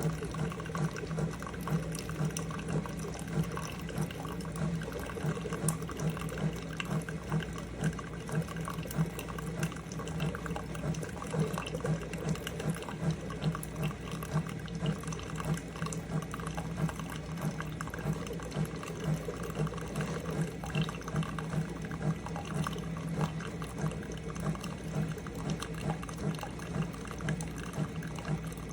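Single-serve pod coffee maker brewing: its pump runs with a steady hum that pulses evenly about one and a half times a second while liquid pours into the cup.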